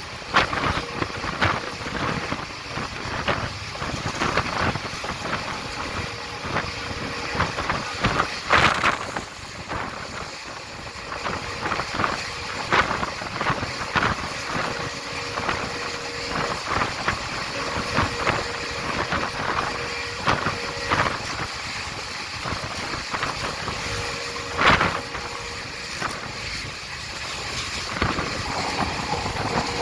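Express passenger train running, heard from on board: a continuous rolling rumble and wind with frequent irregular knocks and clicks of the wheels over the track, a few of them louder, such as one about nine seconds in and one near twenty-five seconds.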